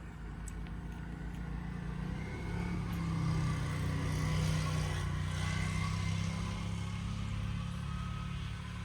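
A motor vehicle's engine humming nearby, growing louder from about two seconds in and easing slightly near the end.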